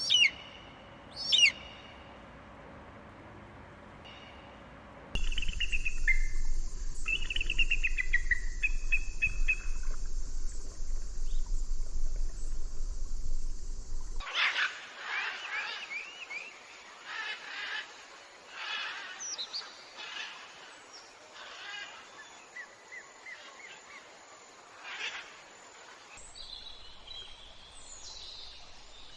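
Wild birds calling and singing in several spliced recordings. A couple of loud, sharp, high calls come first, then a trilling song over a steady hiss, then a busy stretch of many chirps and calls that thins out near the end.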